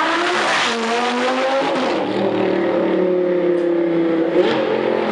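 A car engine accelerating hard, its pitch climbing, then dropping back in steps as it shifts up about one and two seconds in, and running at steady revs after that.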